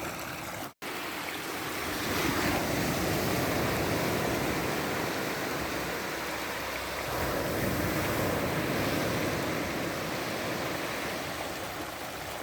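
Sea waves breaking and washing up the shore, the surf swelling twice.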